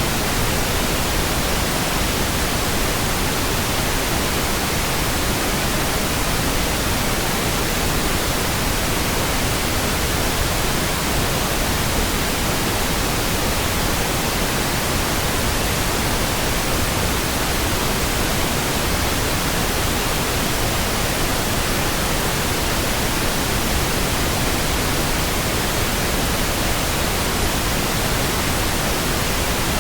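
Steady pink noise: an even, unchanging hiss spread across the whole range, with no breaks or sudden sounds.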